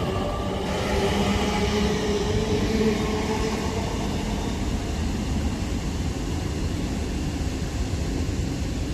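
Avanti West Coast Class 807 electric train pulling out of the station: a steady rumble of the train under way with a motor whine of several tones, one edging up in pitch over the first few seconds as it gathers speed.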